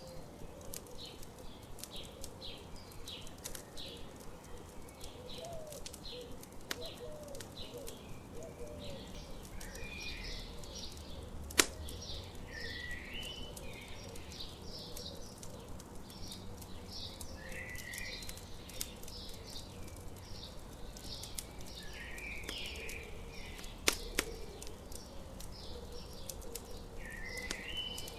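Morning birdsong, with several birds chirping in quick repeated notes throughout and a lower warbling call in the first third. A few sharp pops from a crackling campfire stand out, the loudest about a third of the way in and two close together near the end.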